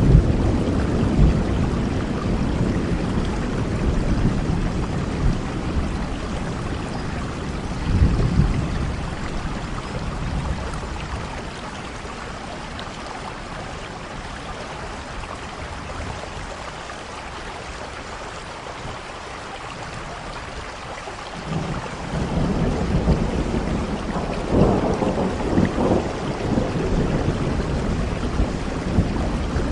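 Heavy rain falling steadily, with rolls of thunder: a rumble fading over the first few seconds, another about eight seconds in, and a long renewed rumbling from about two-thirds of the way through after a quieter stretch.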